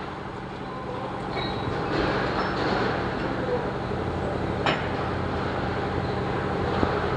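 Steady mechanical hum with a low drone, broken by one sharp click or tap about two-thirds of the way through.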